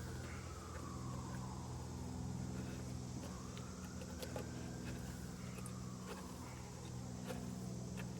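Honeybees buzzing around an opened hive: a steady low hum, with a fainter higher tone rising and falling twice and a few light clicks from hive handling.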